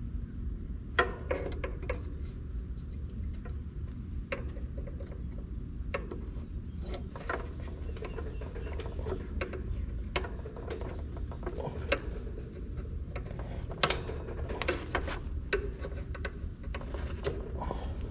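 Irregular clicks, taps and light knocks of hands and tools handling parts, over a steady low rumble, with short high chirps repeating every second or so.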